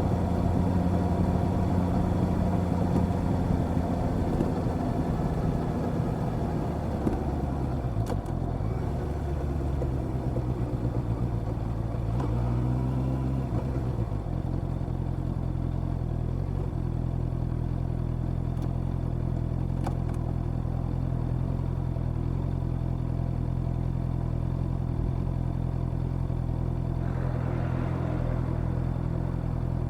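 Honda CB650R's inline-four engine running while riding, with road and wind noise. The engine note drops about seven seconds in, rises and falls again around twelve to fourteen seconds, then holds steady.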